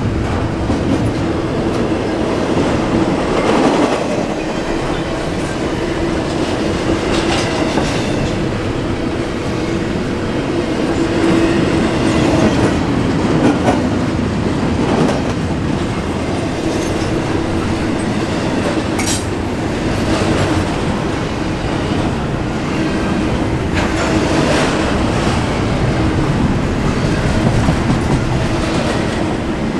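Intermodal container cars of a freight train rolling past, their wheels clacking over the rail joints, with a steady hum and scattered clanks and squeaks.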